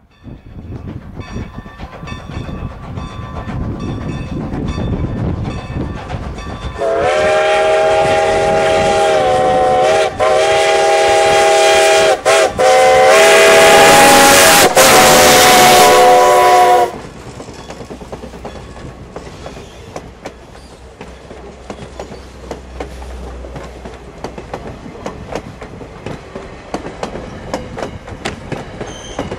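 A 2-10-0 Decapod steam locomotive approaches, then blows its chime whistle loudly in several long blasts broken by brief gaps, a chord of several notes. After the whistle stops, the train rolls past with a steady rumble and rhythmic clickety-clack of wheels over rail joints.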